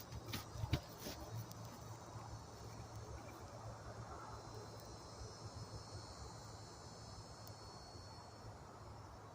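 Crickets chirping in a steady chorus, with a few sharp clicks and knocks in the first second.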